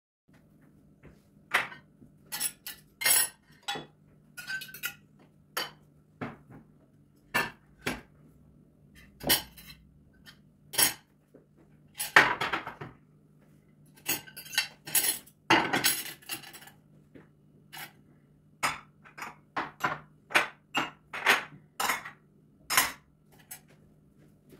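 Dishes and cutlery clinking and clattering in quick, irregular knocks as they are handled for washing, over a faint steady low hum.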